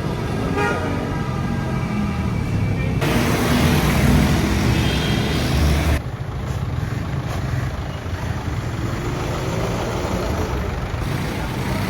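Road traffic noise: vehicle engines running, with a steady low rumble. The sound changes abruptly about three and six seconds in, and a short pitched sound comes just after the start.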